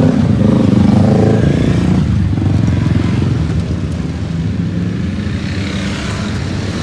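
Motorcycle engines running, the revs rising and falling in the first two seconds, then steadier.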